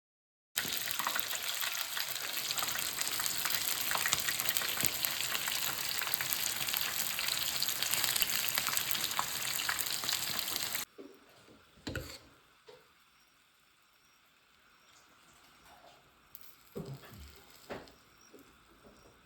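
Food frying in hot oil, a steady sizzle that cuts off abruptly about eleven seconds in. After that only a few faint knocks and clicks.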